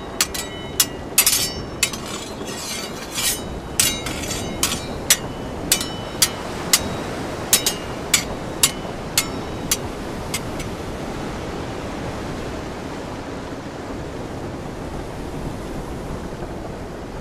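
Heavy rain falling steadily, with sharp taps of drops hitting something hard close to the microphone, many in the first ten seconds and then stopping.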